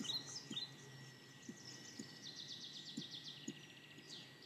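Faint birdsong: a few short high chirps, then a rapid high trill lasting about a second and a half in the middle.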